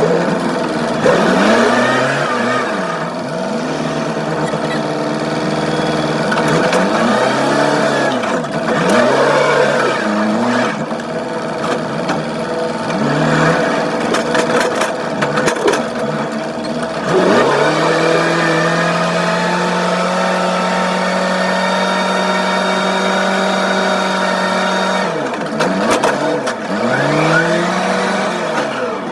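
Working machine's engine revving up and down again and again as it moves and pushes a load, held at steady high revs for several seconds past the middle.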